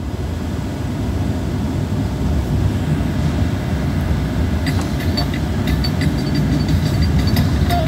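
Steady low rumble of a car driving, heard from inside the cabin. About five seconds in, faint ticks and short tones of music start over it.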